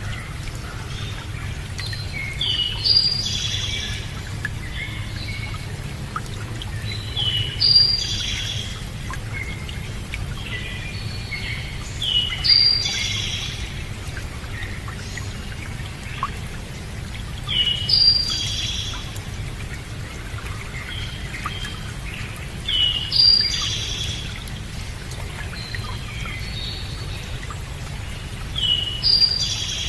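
A songbird singing the same short warbling phrase about every five seconds, six times, over a steady low rumble.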